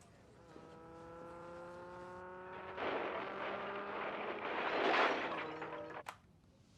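A car engine rising slowly in pitch, joined about three seconds in by a loud rushing noise that swells and then cuts off suddenly.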